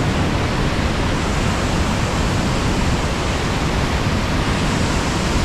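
High Force waterfall on the River Tees: a steady, loud rush of water falling over the main drop.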